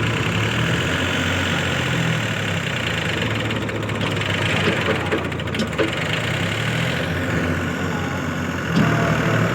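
Mahindra 605 tractor's diesel engine running steadily, its pitch wavering a little.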